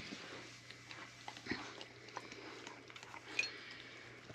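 Newborn puppies and their mother dog making soft wet mouth sounds: scattered small clicks of suckling and licking. A brief high squeak comes about three and a half seconds in.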